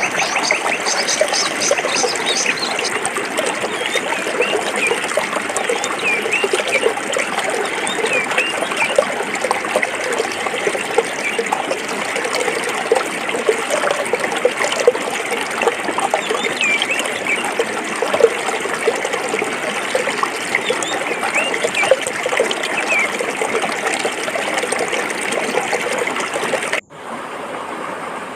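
Stream water running and bubbling over rocks in a steady babble. Near the end the sound cuts out for an instant and comes back slightly quieter and duller.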